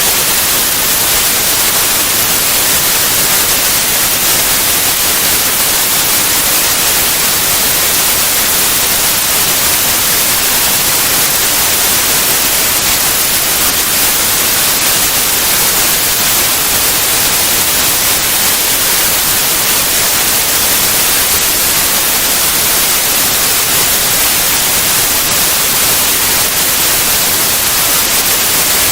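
Steady, loud white noise: an even, unchanging hiss across all pitches, brightest in the highs.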